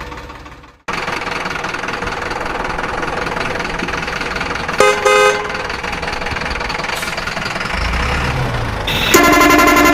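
Vehicle sound effects: after a brief gap, a steady engine sound starts abruptly about a second in. A horn gives two short toots about five seconds in and a longer blast near the end.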